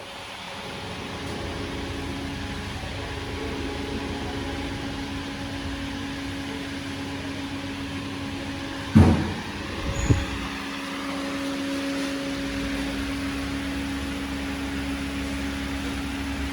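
Mini Cooper Paceman engine running steadily, building up over the first couple of seconds, with two heavy thumps about nine and ten seconds in.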